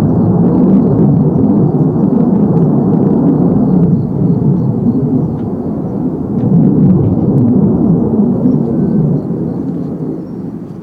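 Jet fighter engine noise: a loud, deep rumble that eases, swells again, and fades away near the end as the aircraft moves off.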